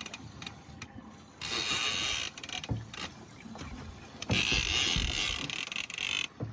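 A heavy fishing reel ratcheting in bursts of about a second or two, twice, with a few low knocks in between.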